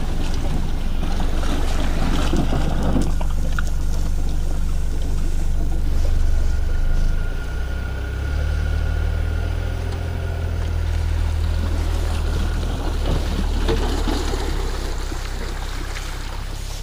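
An SUV's engine running at low speed while it backs a boat trailer into shallow water and draws it back out; the low engine note shifts and drops a little about seven seconds in.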